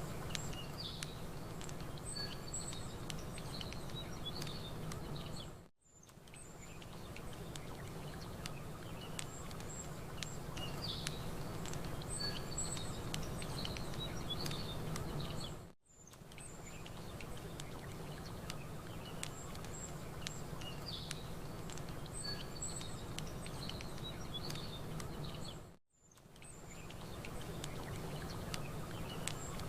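Campfire crackling over a steady low wash of water, with small birds chirping high above. The ambience is a loop that dips briefly to silence and fades back in about every ten seconds, three times.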